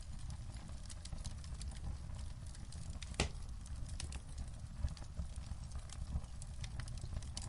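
Wood fire crackling in a fireplace: irregular sharp pops and snaps over a steady low rumble, with the loudest pop about three seconds in.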